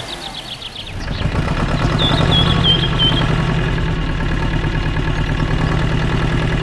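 An engine running steadily with a fast even chug, growing louder about a second in. A few short high bird chirps sound around two to three seconds in.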